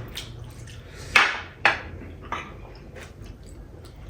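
Dishes and cutlery clinking at a meal: two sharp clinks about a second in and half a second apart, then a few fainter taps.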